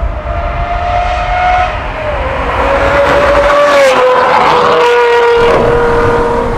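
Aston Martin Vantage V12 engine running hard at high revs through a Secret Weapon exhaust, loud. Its note holds high, then steps down in pitch about two seconds in and again about four seconds in.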